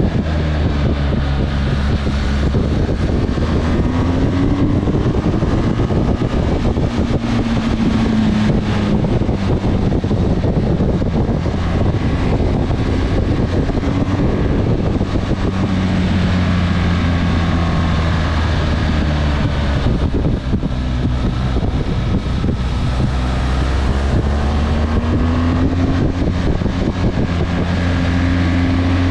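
Motorcycle engine running while riding, its pitch rising and falling several times as it speeds up and eases off, over a steady rush of road noise.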